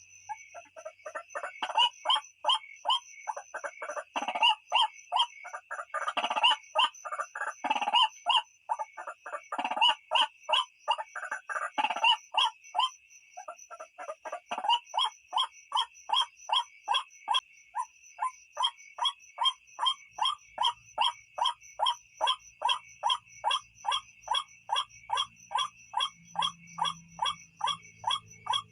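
White-breasted waterhen (ruak-ruak) calling: a long run of harsh, repeated notes, crowded and irregular at first, then settling from about halfway into an even run of about three notes a second.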